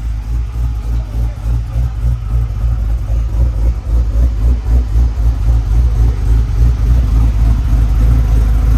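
LS 408 stroker V8 with a stage 3 cam running at a lumpy, loping idle on one of its first runs, now holding oil pressure. The choppy rumble grows a little louder about three seconds in.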